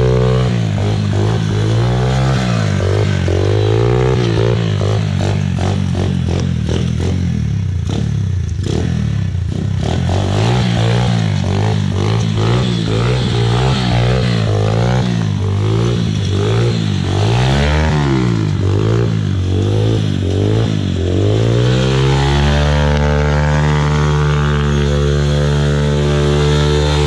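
Yamaha Blaster quad's 200cc two-stroke single-cylinder engine with a Pro Circuit exhaust, revving up and down over and over, then settling to a steady note about 22 seconds in.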